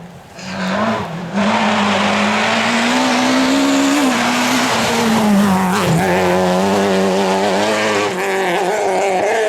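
Rally car going flat out on a stage: the engine comes in loud about a second in and is held at high revs, the pitch rising a little, then falling, with a brief dip about six seconds in. A dense hiss of tyre noise runs under it.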